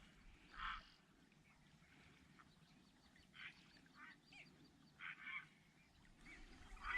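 Faint duck quacking: about five short, harsh calls spread over a few seconds.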